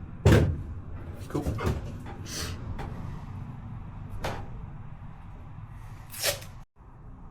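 Duct tape being pulled off the roll in a few short rips, among clunks and knocks of handling, the loudest rip near the end.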